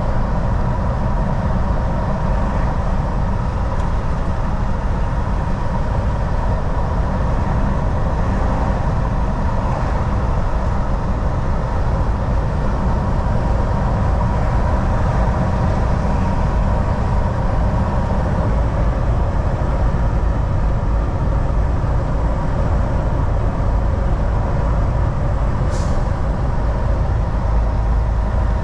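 Cab noise of a Volvo VNL 760 semi truck cruising: a steady low engine and road rumble with a faint constant whine. A single short click sounds near the end.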